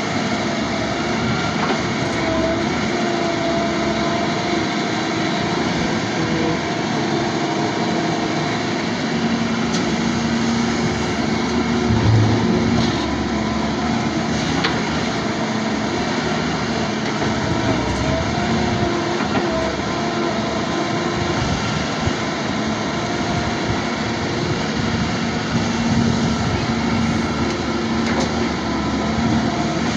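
A vehicle or machine running steadily, with a constant engine hum.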